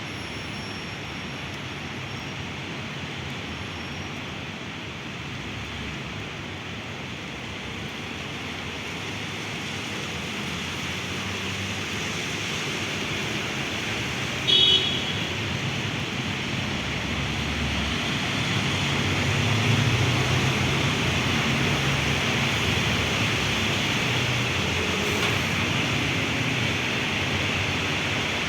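Heavy rain hissing steadily, with traffic on wet city roads. A vehicle's low rumble builds over the middle of the stretch and stays loud near the end, and there is one brief high-pitched squeak about halfway through.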